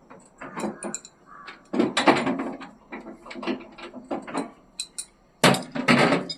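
Irregular knocking and clattering: a string of short knocks and scrapes, heaviest about two seconds in and again near the end.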